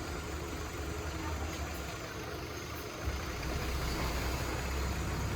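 A heavy diesel engine of earthmoving equipment running steadily with a low rumble, a little stronger from about three seconds in.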